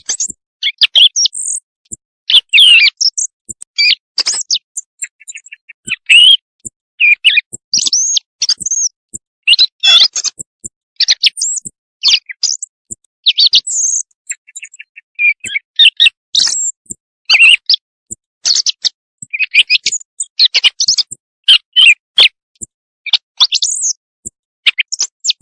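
Recorded quail calls played as a night-time hunting lure: a rapid, irregular run of short high chirps and brief trills, with clean silent gaps between them.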